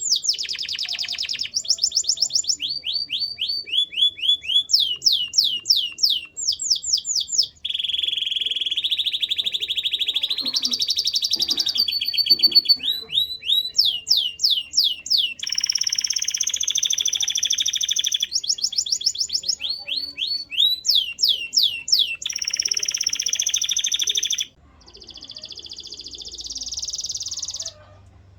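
Male canary singing a long song of fast trills, each phrase a rapid run of one repeated note, some notes sweeping down in pitch, others merged into a buzzing roll. The phrases change every second or two, with a brief break about a quarter of the way in, and the song ends on a softer trill near the end.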